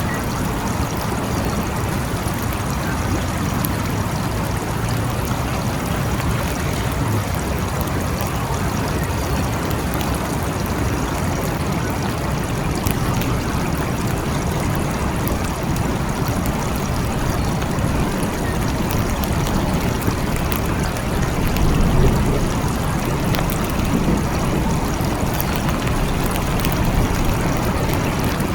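Steady rain falling, with fine drop ticks over an even hiss. A low rumble swells and fades about three-quarters of the way in, like distant thunder.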